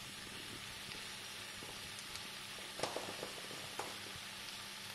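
Goat lung pepper masala fry sizzling steadily in oil in a pan, the water cooked off so it fries in the oil alone. A few sharp clicks sound past the middle.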